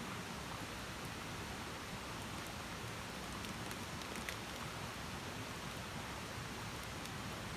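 Wood campfire burning: a steady soft rush of flame with scattered small crackles and one slightly sharper pop about four seconds in.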